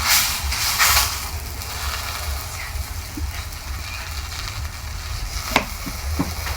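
Chapati frying on a hot pan, sizzling steadily, with two louder surges of sizzle in the first second and a sharp click about five and a half seconds in.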